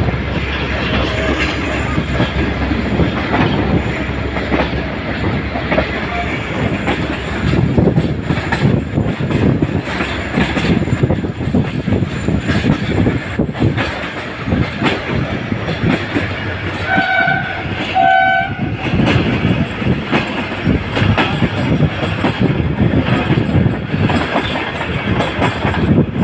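Passenger train running, heard from an open coach window: wheels clattering over the rails with wind rushing past. About two-thirds of the way through, a train horn gives two short toots.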